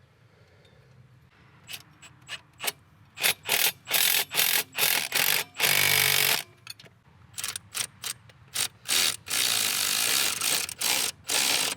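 Ratchet tightening the bolts of a Subaru transmission pitch stopper mount, run in many short bursts and a few longer runs of about a second, after a quiet first second and a half.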